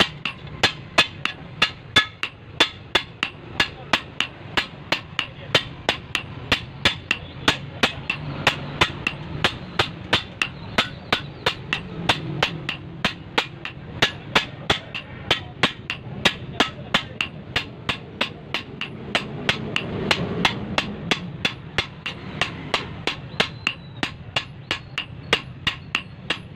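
Hand hammer beating a toka machine's steel chopper blade in a steady rhythm, about two to three ringing blows a second.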